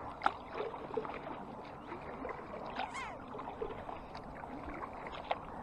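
Canoe paddling on flat-calm water: paddle strokes with water dripping and trickling, and scattered small knocks and splashes.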